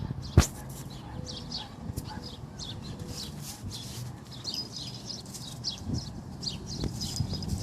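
Bird chirping over and over in short, quick downward notes, with one sharp knock about half a second in.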